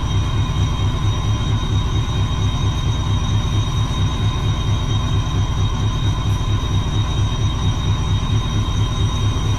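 Railway locomotive running: a steady, throbbing low rumble with high whining tones held over it.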